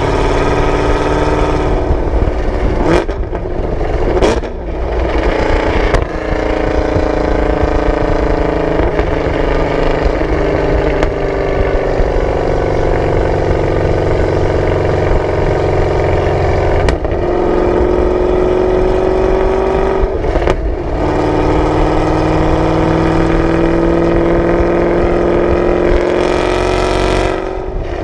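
Camaro ZL1's supercharged 6.2-litre V8 through a Corsa exhaust, heard from the rear while driving, with the engine pitch rising and falling and several brief breaks where gears change or the throttle lifts.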